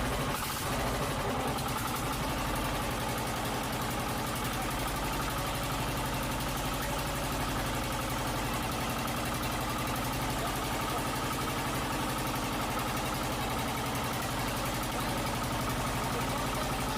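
Engine of a motorized outrigger fishing boat (bangka) running steadily at an even speed.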